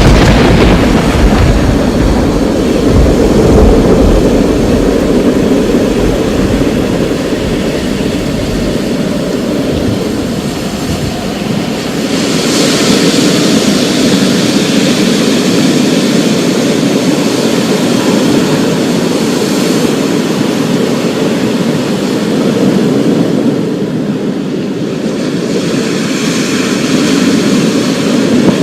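A thunderstorm: a clap of thunder right at the start rolls on as a deep rumble for about ten seconds, over steady heavy rain. About twelve seconds in, the rain's hiss grows brighter for several seconds.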